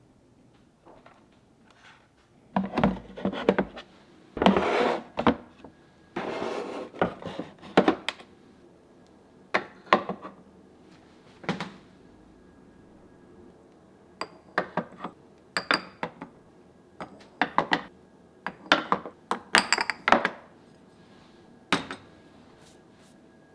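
Kitchenware being handled and put away: dishes, utensils and containers clinking, knocking and sliding against one another in irregular clusters, with a few brief scraping or rubbing passages.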